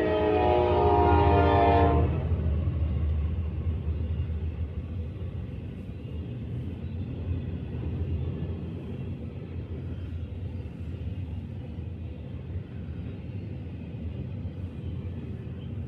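Diesel freight locomotive's horn sounding a chord of several tones, cutting off about two seconds in, then the steady low rumble of a Norfolk Southern intermodal train rolling past.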